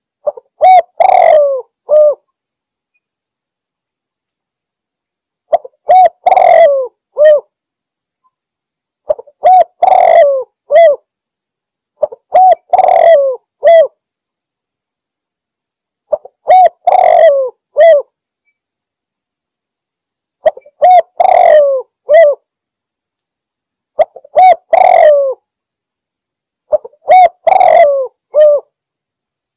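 Spotted dove (tekukur) cooing: the same short phrase of several coos, the last note longest, repeated about every four seconds, eight times over, with silence between. It is the dove's loud rival-challenging call.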